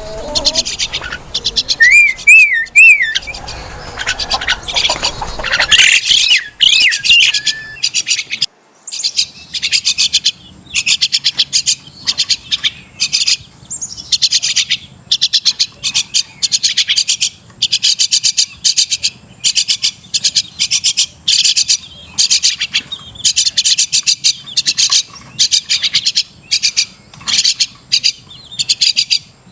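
Crested mynas calling: runs of rapid, harsh, high chattering notes in short bursts repeated about once a second, with a wavering whistle near the start.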